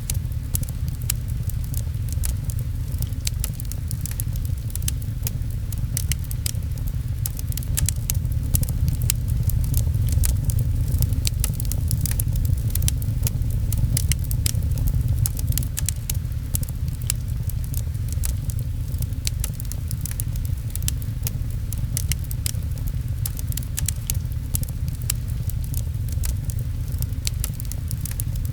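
Fireplace crackling with many quick sharp pops, over a steady low rumble and rain pattering. It swells slightly in the middle.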